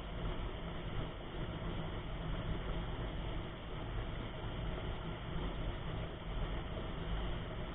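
Steady rushing noise with an uneven low rumble: wind buffeting the microphone of a camera on a moving mountain bike.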